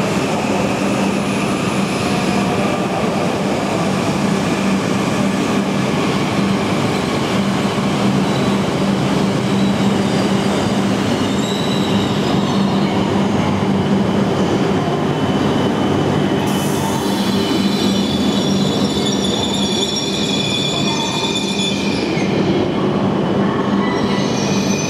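H5 series Shinkansen train running slowly through the station, its wheels squealing in several high, thin tones over a steady low hum. The squeal grows stronger about halfway through and fades near the end as the train clears.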